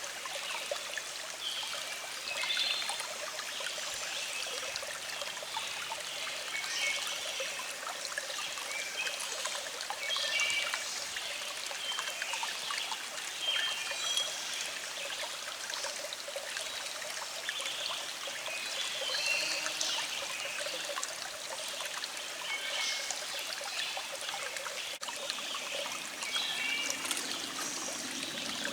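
Small stream trickling and flowing steadily, with birds singing in short, repeated chirps in the background.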